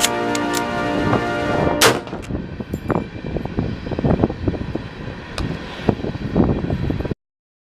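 Gunfire over music: a loud shot about two seconds in, then a run of irregular shots and cracks. The sound cuts off abruptly about seven seconds in.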